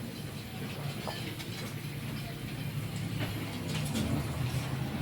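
Steady low hum of a running engine or motor, growing slightly louder toward the end, with a few short clicks or knocks over it.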